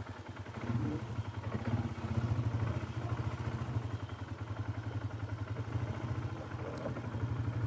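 Polaris ATV engine running steadily at low revs as a steady low throb while the quad creeps down a steep hill in four-wheel descent mode, the engine holding it back.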